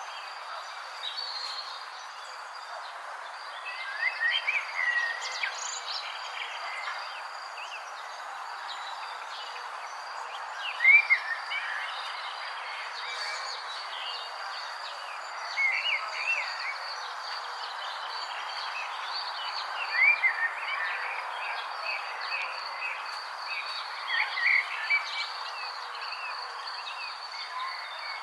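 Birds chirping in short curling phrases every few seconds, the loudest a little over a third of the way in. Under them runs a steady high insect trill and a constant background hiss.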